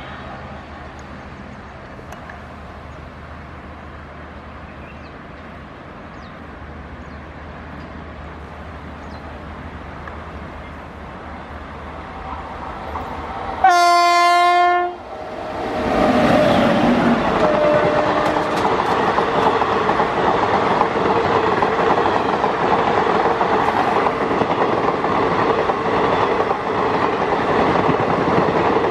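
WAP-7 electric locomotive and its train approaching, faint at first and slowly growing louder; about halfway through the locomotive sounds one loud horn blast of about a second and a half. The locomotive and coaches then run past close by, loud and steady.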